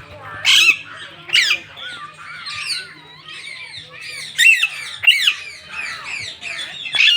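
Several parrots squawking and screeching, with many overlapping harsh calls that swoop up and down in pitch, the loudest bursts coming a few times across the stretch.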